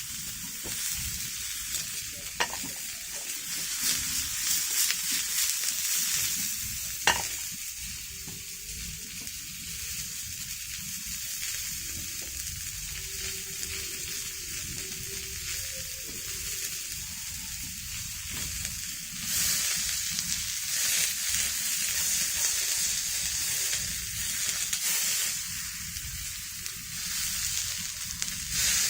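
Food frying in a pan, a steady sizzling hiss, with two sharp clicks, the louder about seven seconds in.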